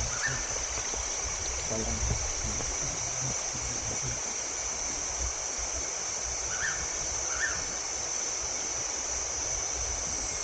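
Stream water running steadily over the rocks of the waterfall's wells, with a steady high-pitched hiss above it and two short high chirps about two-thirds of the way through.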